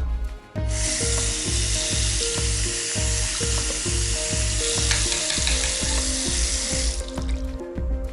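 Background music with a steady beat, overlaid by a loud, even hiss that starts abruptly about half a second in and cuts off about a second before the end.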